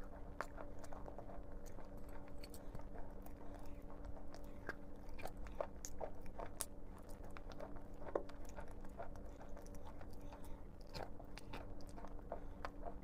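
Close-up biting and chewing of chalk: irregular dry crunches and crackles throughout, over a faint steady hum.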